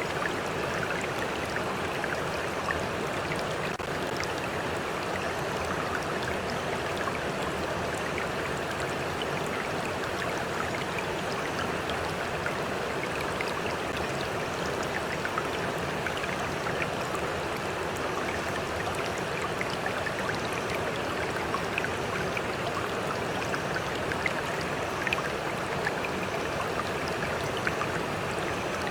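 A stream flowing steadily: an even rush of running water with small splashes and drips scattered through it.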